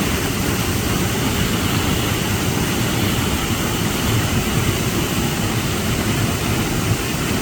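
Steady roar of a waterfall's falling water, heaviest in the low rumble.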